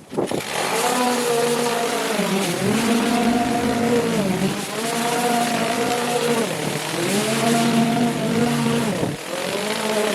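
Small petrol engine of a garden power tool running hard. Its pitch sags and recovers about every two seconds as it bogs under load.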